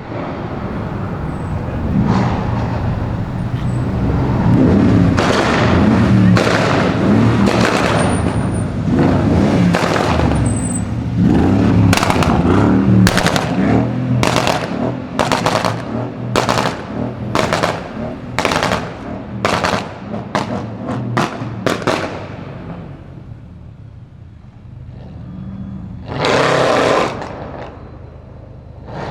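Mercedes-Benz E500 W212's 4.7-litre twin-turbo V8, with a custom downpipe and exhaust, being revved hard. This is followed by a long run of loud exhaust bangs, about one or two a second for some ten seconds. Near the end there is one more short, loud rev.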